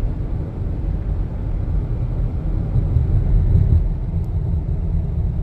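Steady low rumble of a car being driven, heard from inside the cabin: engine and road noise at a constant level.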